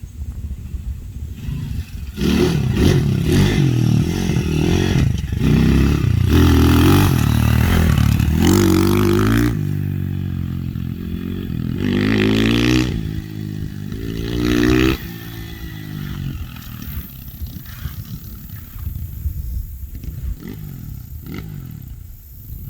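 Small single-cylinder pit bike engine being ridden, revving up and falling back several times, then dropping to a quieter, lower running about fifteen seconds in.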